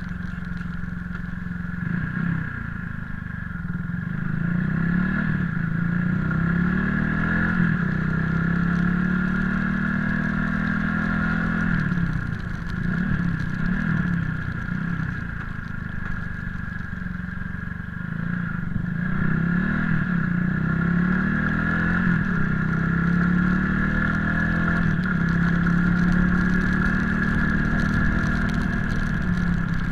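Motorcycle engine running while riding, its note rising and falling with the throttle, with a steady high hum over it.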